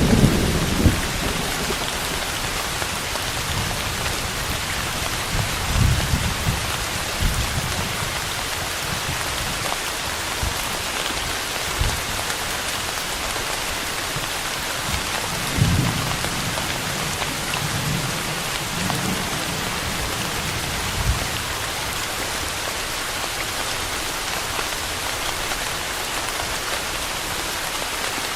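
Steady rain hissing on surfaces, with several short low rumbles of thunder, the clearest about six seconds in and around sixteen seconds in.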